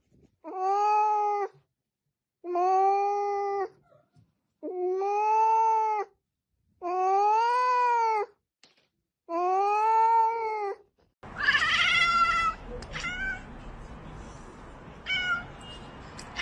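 A cat giving five long, drawn-out meows, each rising and falling in pitch, with silent gaps between them. About eleven seconds in, the sound changes to a noisier recording holding one higher, louder call and a few short ones.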